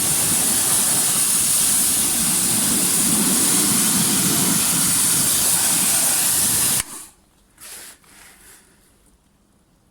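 Pressure-washer jet of hot water hissing steadily as it rinses foam off a car engine, cutting off suddenly about seven seconds in, followed by a few faint knocks.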